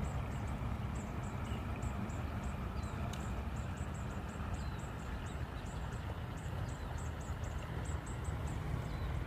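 Steady rush of a river with a strong low rumble, and a scatter of short high-pitched chirps throughout, with a few brief sliding calls.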